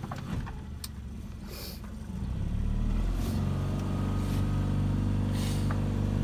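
Boat's engine being throttled up: the engine note swells and gets louder about two seconds in, then runs steadily at the higher speed as the boat gets under way.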